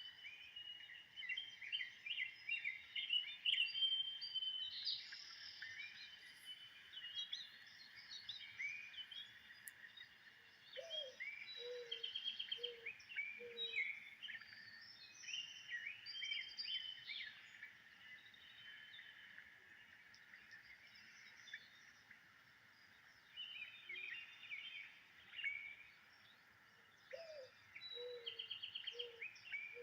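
Wild birds chirping and singing together, many short calls and trills overlapping. Twice, about a third of the way in and near the end, a lower, slower call of four notes sounds beneath them.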